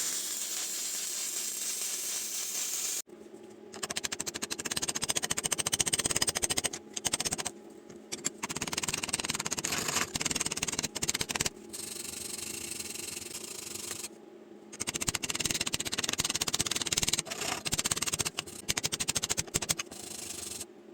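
Electric arc welding: the arc crackles and sizzles in stop-start runs of one to three seconds, with short pauses between beads.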